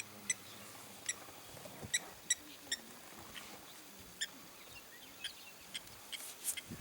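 Small birds giving short, high chirps, about a dozen scattered irregularly.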